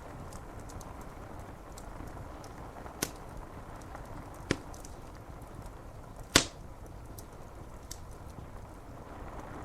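Steady hiss of rain against window glass with a wood fire crackling. Three sharp pops from the burning wood come about three seconds in, a second and a half later, and about six seconds in, the last the loudest.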